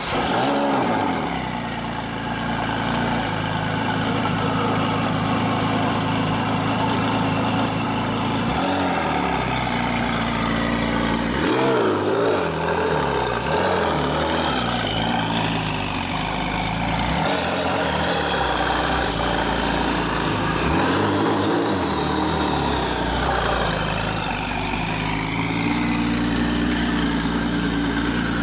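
Gemballa Avalanche BiTurbo's twin-turbocharged flat-six, based on the Porsche 997, settling from its start-up flare into a loud, steady idle. Its pitch rises and dips several times through the middle as the throttle is blipped, then it returns to a steady idle.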